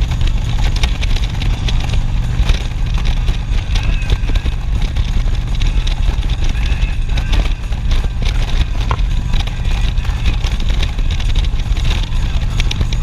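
Harley-Davidson Street Glide's V-twin engine running steadily while riding, under heavy wind noise buffeting the microphone.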